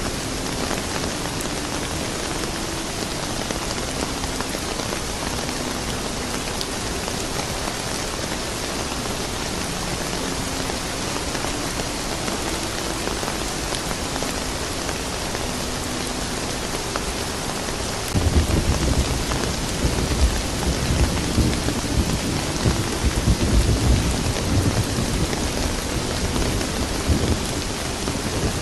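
Steady rain falling, with a low roll of thunder that breaks in about two-thirds of the way through, rumbles for several seconds and then eases off.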